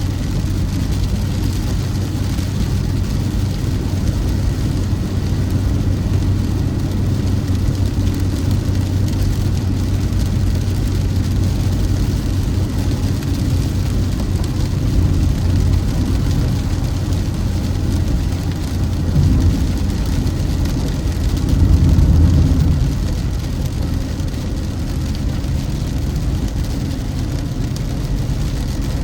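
Steady road noise of a car driving along a highway: a continuous low engine and tyre hum that swells briefly about 22 seconds in.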